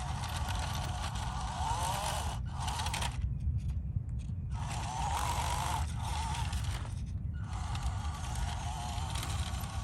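Small electric RC crawler drivetrain, a brushed 370 motor and metal gearbox, whining and grinding as the truck crawls. It cuts out briefly several times, with the longest gap about three seconds in, as the throttle is let off and reapplied.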